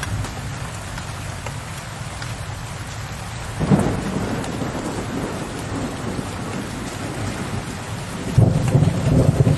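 Steady heavy rain with thunder: a sudden clap of thunder a little under four seconds in that rolls off slowly, then another deep rumble of thunder building near the end.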